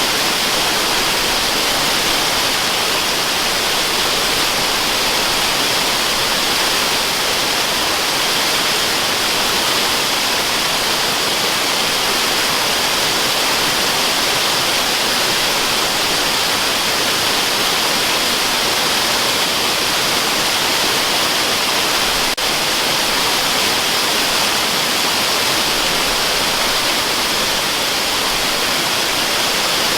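Waterfall rushing steadily, an even, unchanging hiss-like wash of falling water, with one momentary dip about 22 seconds in.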